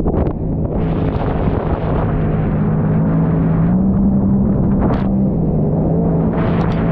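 Jet ski engine running steadily under way, its hum rising a little in pitch midway and then settling back, over a rushing noise. A short sharp noise stands out about five seconds in.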